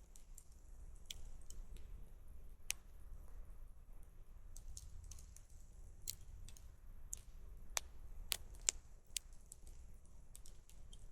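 Campfire crackling: irregular sharp pops and snaps of burning wood, with several louder pops in the second half, over a faint low rumble.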